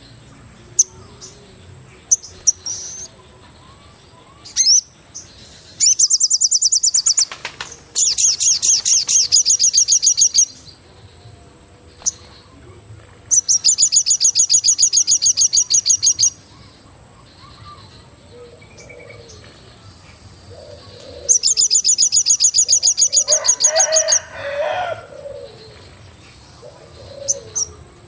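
Forest wildlife ambience: a loud, high, rapidly pulsed trill comes in bursts of two to three seconds, four times, over a faint steady high tone, with softer low calls in between.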